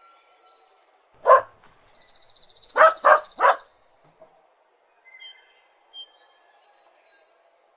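A dog barking: one bark, then three quick barks about a second and a half later. A high, fast trill runs underneath for about two seconds, and faint bird chirps follow.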